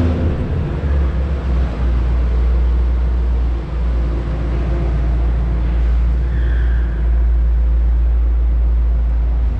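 Dodge Challenger Hellcat's supercharged V8 and road noise heard from inside the cabin while driving, as a steady low drone, with two brief dips in loudness.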